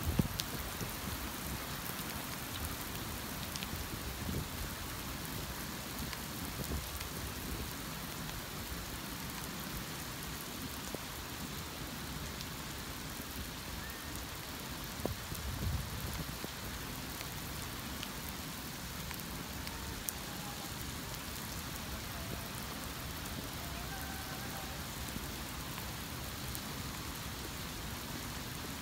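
Steady heavy rain falling and pattering on surfaces, with a couple of brief knocks.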